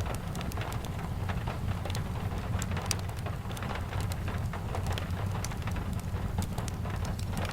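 Steady rain falling, with many scattered sharp crackles and snaps from a fireplace and a steady low rumble underneath.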